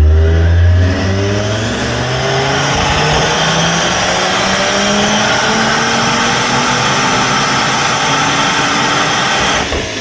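Car engine making a full-throttle pull on a chassis dynamometer, its pitch climbing steadily through the rev range for about nine seconds; near the end the throttle closes suddenly and the revs start to fall.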